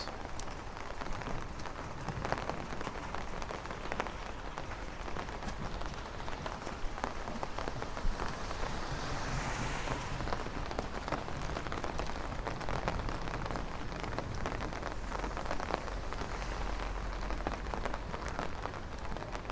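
Steady rain falling on the street, with many small drops pattering close by. A hiss swells briefly about halfway through.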